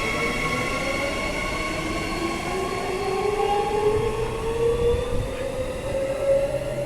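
Perth electric suburban train pulling away from the platform, its motors whining up slowly in pitch as it gathers speed, with steady higher tones over the rumble of the train.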